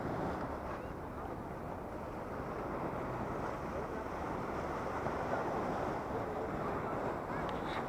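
Wind rushing over a helmet-mounted action camera's microphone while riding, a steady noise with no clear engine note.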